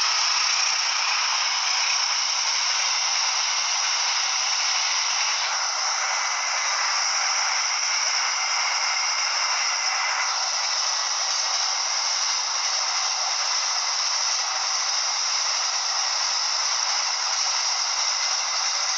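Steady hissing noise with no clear events, brightest in a high band, with faint steady tones running through it.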